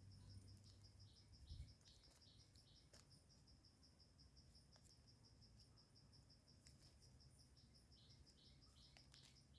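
Faint insect calling in rapid, even pulses, about five a second. Short higher chirps come in groups in the first two seconds and again near the end, and a soft low thump sounds about a second and a half in.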